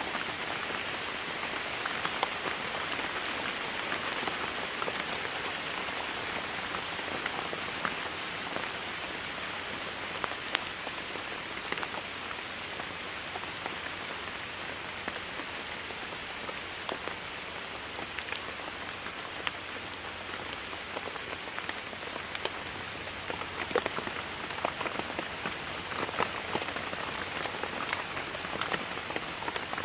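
Steady rainfall with individual drops pattering sharply on a hard surface throughout.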